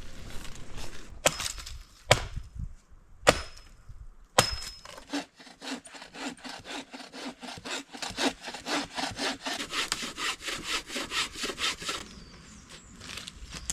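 A few sharp knocks, then a hand saw cutting through wood in quick, even strokes, about four a second, for several seconds before stopping.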